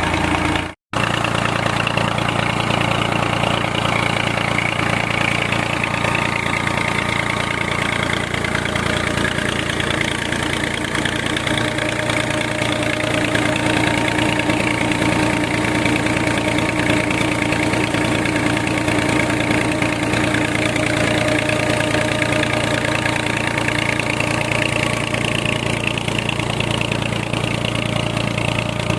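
Tractor engine running steadily under load, turning a tubewell pump through its drive shaft. There is a brief cut-out about a second in.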